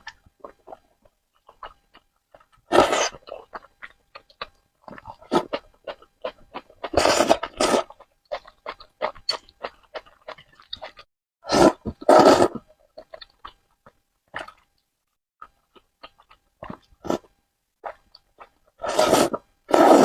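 Noodles being slurped in four loud, rushing bursts, with wet chewing and mouth clicks in between.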